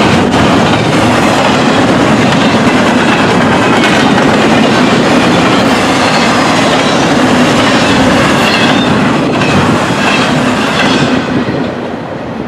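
Train cars rolling past close by, wheels clacking over the rail joints. The sound starts to die away near the end as the train goes by.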